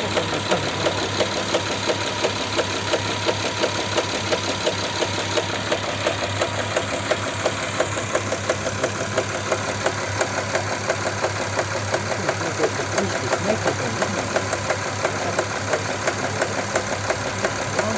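Audi Q7's 3.6 FSI VR6 engine idling while warming up, with a fast, regular knocking over the idle. The mechanic suspects a knocking cam phaser.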